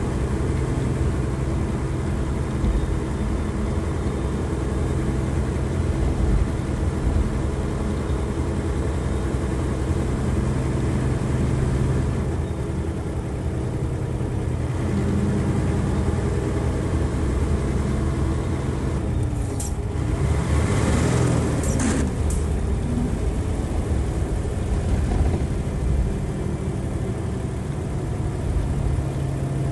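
Nissan Diesel FE92TA turbocharged diesel engine of a bus running under way at high revs, a steady engine drone. About two-thirds of the way through there is a brief burst of hiss.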